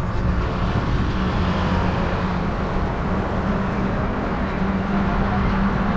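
Steady road and traffic noise heard while riding a bicycle, with a low steady hum under an even rush of noise.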